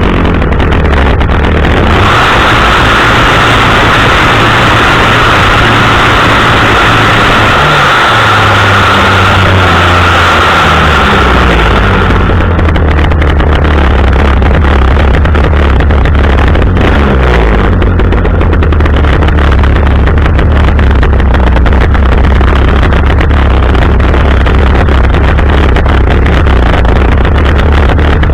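Small two-stroke chainsaw engine running loud and close at low speed, its pitch shifting a couple of times, about a third of the way in and again a little past halfway.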